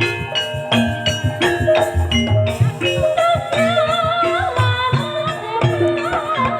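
Ebeg accompaniment music in campursari style: struck metallophone notes and drum beats in a steady rhythm, with a wavering melody line joining about two and a half seconds in.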